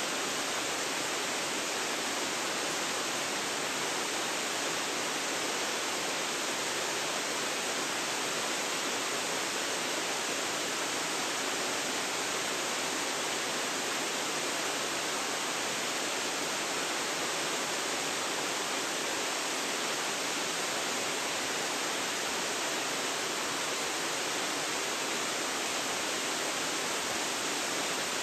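Waterfall: falling water making a steady, unbroken hiss, bright with little low rumble and no separate splashes.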